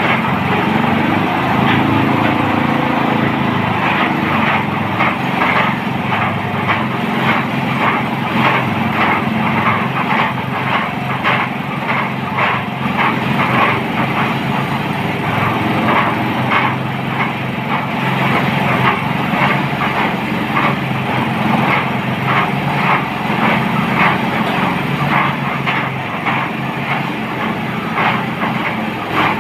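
Engine of a motorised well-drilling machine running steadily under load, with a rough, rapid pulsing.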